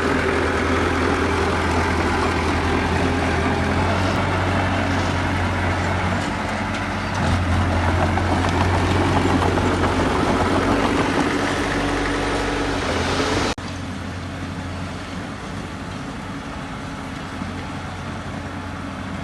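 Heavy diesel engine of earthmoving machinery running steadily, a little louder from about seven seconds in. About two-thirds of the way through the sound cuts off abruptly, and a quieter engine runs on.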